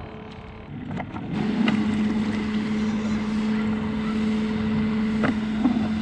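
Small boat motor running with a steady hum and hiss, which comes up about a second and a half in and cuts off shortly before the end.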